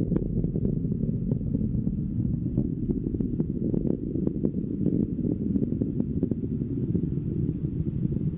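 Long March rocket's first-stage engines rumbling during powered ascent: a steady deep roar with rapid irregular crackles.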